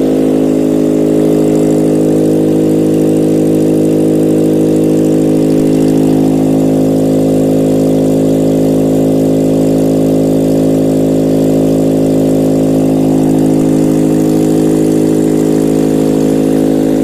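Toyota 3S-FSE 2.0-litre inline-four direct-injection engine idling steadily on a test stand, with an even pitch and no revving, as it is checked before sale.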